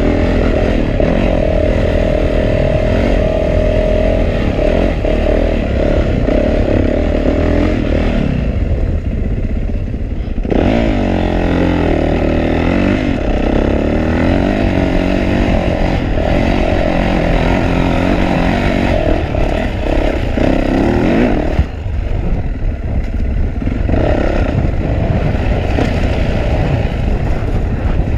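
2012 Yamaha YZ450F's single-cylinder four-stroke engine under a rider on a dirt trail, its pitch rising and falling as the throttle is worked. It eases off about a third of the way in, then revs up hard again.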